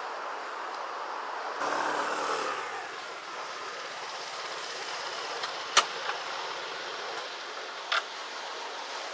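A motor vehicle drives past briefly, its engine note falling in pitch, over a steady rush of wind and surf. Two sharp clicks follow, one near the middle and one near the end.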